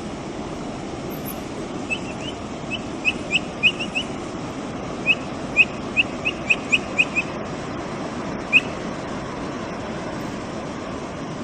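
Capybara peeping: about fifteen short, high peeps in two quick runs, then a single peep a little later, over a steady rushing background noise.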